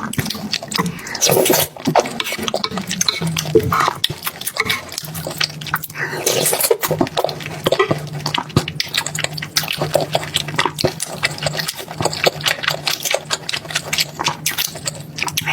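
Wet chewing and slurping sounds of eating, made up of many quick clicks and smacks. A steady low hum runs beneath them from about five seconds in.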